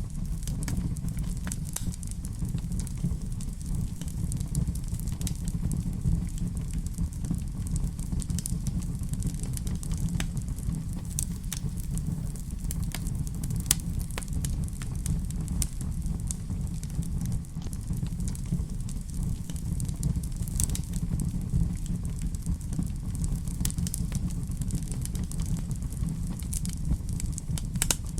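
Wood fire in a fireplace crackling, with irregular small pops over a steady low rumble. One sharper pop about halfway through.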